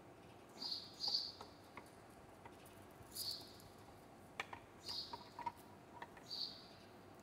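A small bird chirping faintly, about five short chirps spaced a second or two apart, with a few faint clicks as a power tool's cord is handled.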